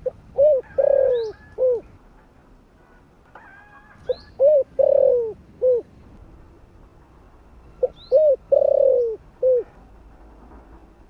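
Spotted dove cooing its calling song: three phrases about four seconds apart, each a short run of about four coos with a longer, drawn-out note in the middle.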